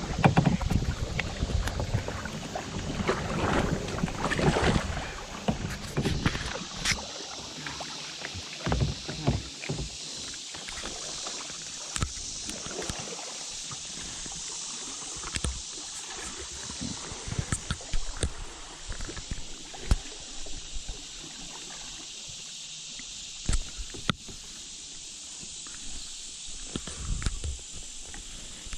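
Kayak moving through small river rapids: water rushing and splashing around the hull with paddle strokes, busier and louder for the first few seconds, then a steady rush broken by occasional sharp knocks.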